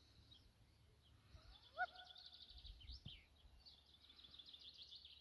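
Faint birdsong: rapid high-pitched trills and chirps, with one short, louder rising call about two seconds in.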